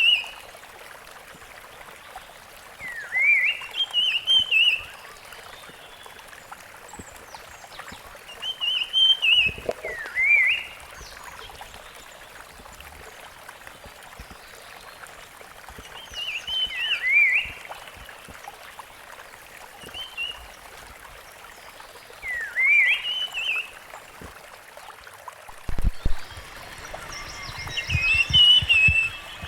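Rusty-fronted barwing singing: short whistled phrases that rise and then fall, repeated every few seconds over a steady background hiss. A few low thumps come near the end.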